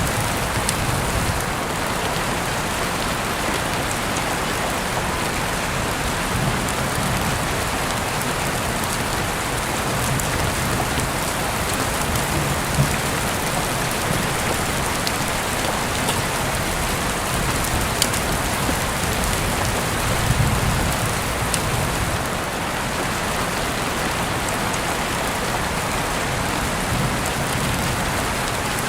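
Heavy rain falling steadily through an open window, a dense, even hiss with a few sharper drop hits now and then.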